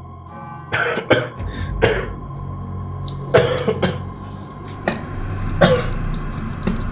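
A person coughing and clearing their throat, about six harsh coughs spread over several seconds.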